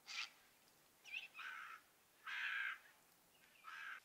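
Birds giving short, harsh, croaking calls, about five in a row roughly a second apart, faint, with the longest a little after the middle.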